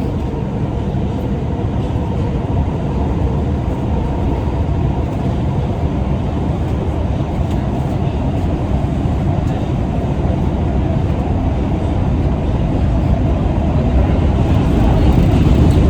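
New York City subway train running between stations, heard from inside the car: a steady rumble of wheels on track that grows louder near the end.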